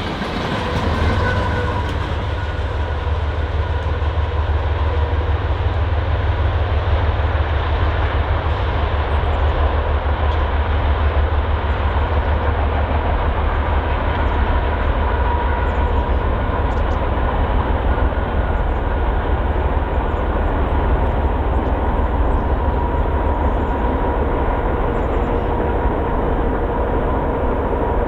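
Freight train rolling past on the rails: a steady, loud rumble of cars with a faint, thin high whine running through it.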